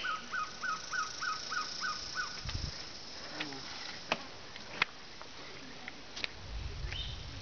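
A bird calling a quick run of about eight short, identical notes, three or four a second, stopping about two seconds in. A couple of sharp clicks follow later.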